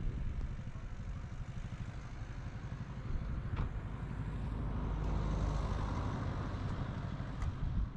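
A motor vehicle's engine running with a steady low rumble that swells in the second half.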